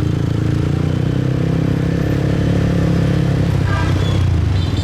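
Motorbike engine running steadily while riding, with the noise of surrounding street traffic.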